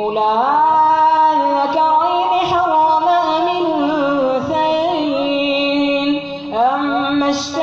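A boy's voice chanting Quran recitation in prayer, drawing out long held notes with ornamented glides. The phrase breaks off about six and a half seconds in, and a new phrase rises straight after.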